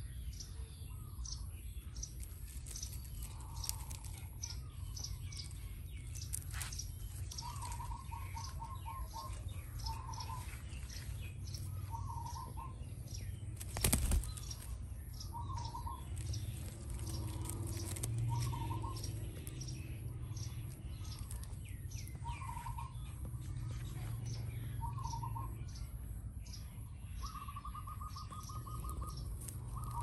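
Birds calling: short trilled calls recur every couple of seconds, with one longer trill near the end, among many quick high chirps. A single sharp knock about halfway through is the loudest sound, and a steady low rumble runs underneath.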